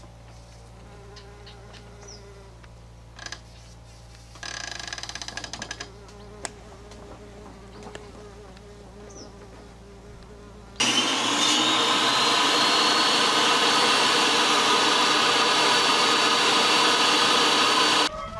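Electric motor buzzing briefly, then starting up with a rising whine and running steadily at full speed for about seven seconds before cutting off.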